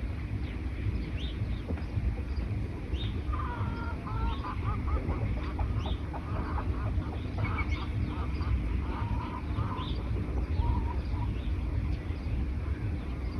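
Wild birds calling in a forest: short high chirps repeating about once a second, joined about three seconds in by a rapid run of lower notes that lasts around six seconds. A steady low rumble lies underneath.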